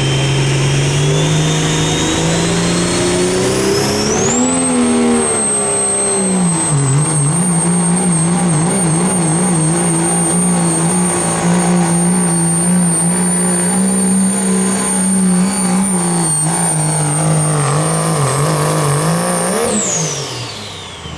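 A pulling vehicle's engine running at full throttle during a pull. The engine note is loud and steady, with a high whine that climbs over the first few seconds and then holds. Near the end the throttle comes off, and the whine and the engine note drop away quickly.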